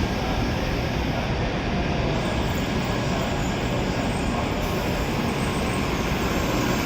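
Steady running noise of an N700S Shinkansen train at a station platform around its departure.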